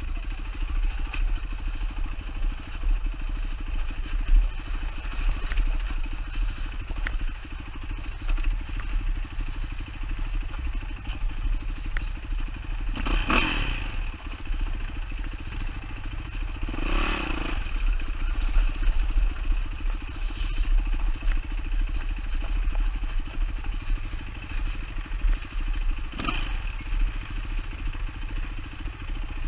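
2007 Yamaha WR450F's single-cylinder four-stroke engine running steadily under way, with a few brief louder rushes of noise about a third of the way in, around the middle and near the end.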